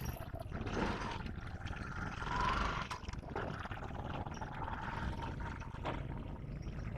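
Low, steady engine rumble with a faint tone that comes and goes, swelling louder about two and a half seconds in.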